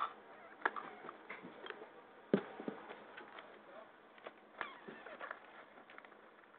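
African grey parrot chicks during hand feeding: scattered short clicks and a few brief squeaky calls, faint and irregular.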